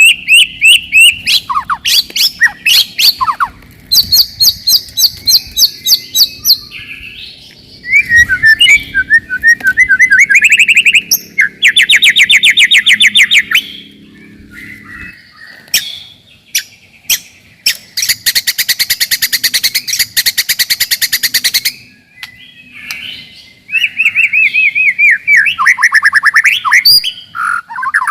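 White-rumped shama (murai batu) singing a loud, varied song of fast repeated notes, rapid trills and sweeping whistles, with short pauses between phrases.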